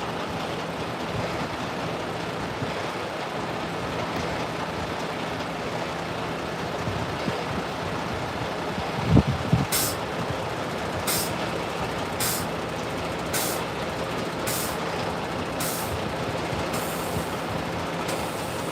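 Steady engine hum from vehicles idling in a traffic jam. About halfway through comes a low thud, followed by a regular series of short, hissy pulses about once a second, seven or eight in all, until near the end.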